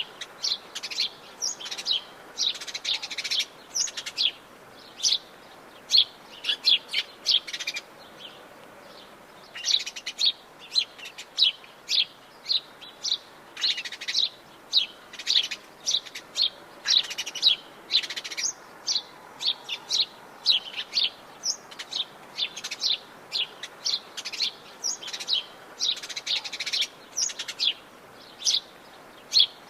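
Several wild birds chirping and calling in a rapid stream of short, high notes, with a brief lull about eight seconds in, over a faint steady background hiss.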